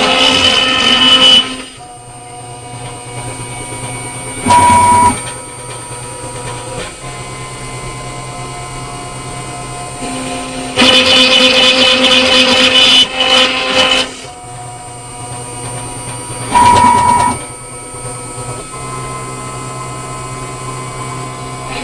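WALTER 6545 CNC machine's spindle cutting an acrylic plate in a repeating cycle: a loud, high-pitched cutting pass at the start and another from about 11 to 14 seconds, short loud bursts near 5 and 17 seconds, and quieter steady motor running with a low hum in between.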